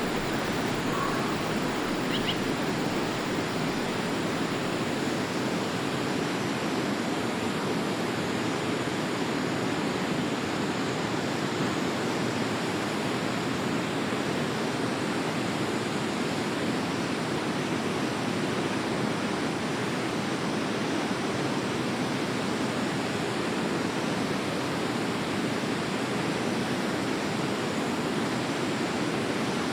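Forest river flowing, a steady rush of water with no change in level. A single faint high chirp, likely a bird, about two seconds in.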